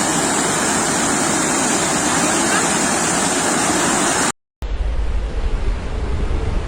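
Sea waves washing on the shore in a steady rush of surf. About four seconds in the sound drops out for a moment and comes back with a deeper low rumble.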